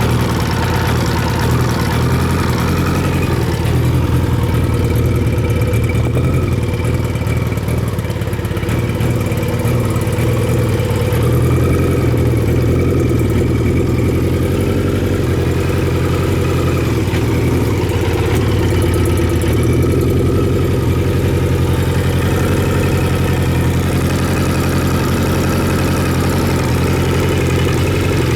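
Kawasaki Z1000J's air-cooled inline-four engine idling steadily.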